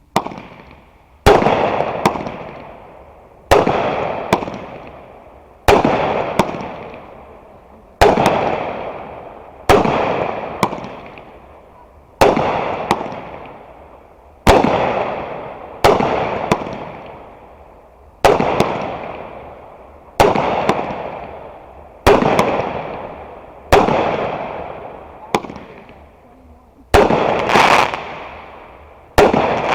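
Fireworks going off one after another, a sharp bang about every two seconds, each trailing off in a noisy fading tail.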